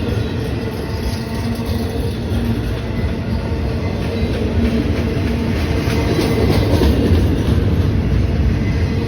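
A train running past in a steady, loud rumble with a faint steady tone over it, growing slightly louder about two-thirds of the way in.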